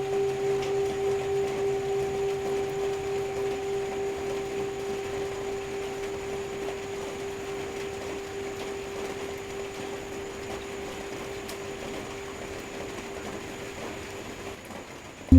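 Tibetan singing bowl ringing out after a strike, one steady tone with a fainter overtone that wavers at first and slowly fades away, over the steady hiss of rain. At the very end another bowl is struck, much louder and lower.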